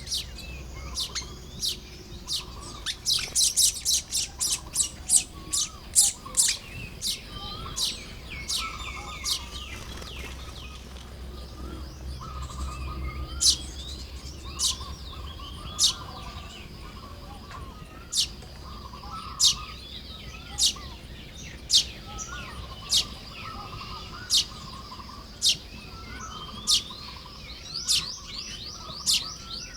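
Baya weavers calling at their nests: a quick flurry of sharp, high chips a few seconds in, then single chips roughly once a second, over softer wavering chatter.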